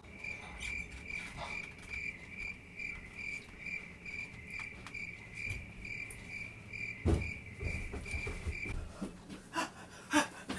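Cricket chirping: an even run of high chirps, about three a second, that cuts off abruptly near the end. A low thump comes about seven seconds in.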